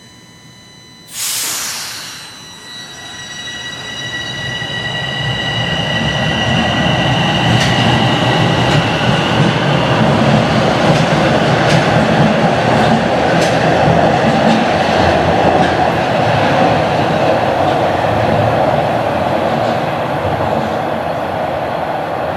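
Toronto Rocket subway train setting off: a sharp burst of air hiss about a second in, then the running noise of its motors and wheels builds over several seconds to a steady loud rumble, with light clicks from the rails.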